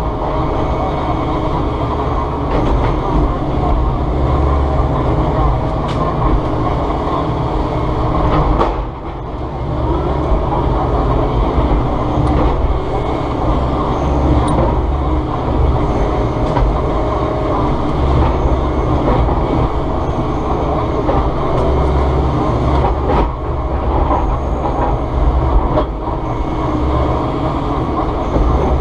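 Volvo ECR145EL excavator's diesel engine and hydraulics running steadily under working load, a continuous heavy rumble with a brief drop in loudness about nine seconds in.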